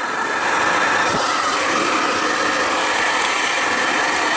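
Hair dryer running on 220 V mains, its fan motor blowing hard with a steady whoosh. The blower is strong but the air is cold: the heater is giving no heat.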